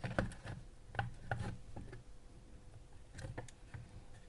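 Scattered light clicks and taps with some rubbing: small parts being handled on a workbench.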